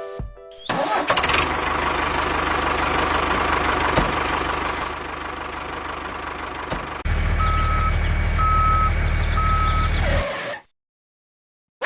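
Vehicle engine running steadily, then changing to a heavier, lower hum as three short reversing beeps sound about a second apart. It cuts off suddenly near the end.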